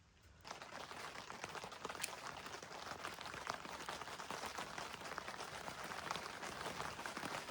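Heavy rain pattering on a large tent, a dense, steady patter of drops that starts abruptly about half a second in.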